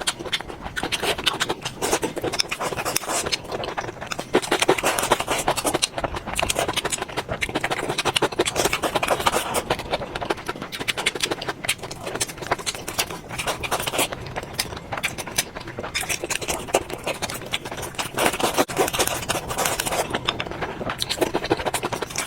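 Close-miked eating sounds: steady, rapid crunching and chewing, a dense run of crackles.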